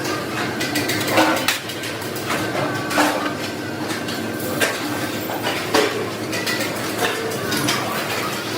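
Sheet steel clanking and knocking as it is worked in a workshop: a few sharp metal impacts a second or two apart over a steady background of machinery.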